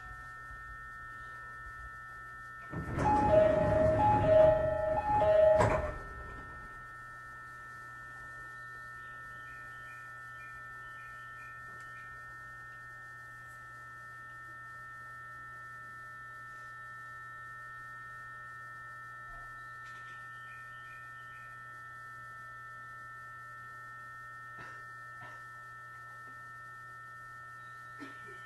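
Inside a stationary JR 209-series electric train car: a steady low hum and a high steady whine from the car's electrical equipment. About three seconds in, a loud burst of around three seconds carries two alternating tones.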